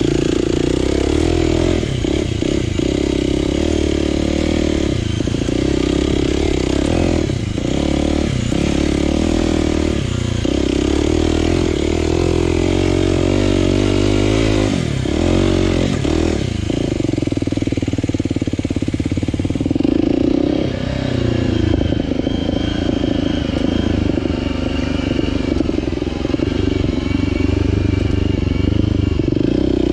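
Aprilia RX125 4T's single-cylinder four-stroke engine through a Snell slip-on silencer with its dB killer fitted, being ridden. It runs steadily, and the revs dip and change pitch briefly many times as the throttle is closed and reopened.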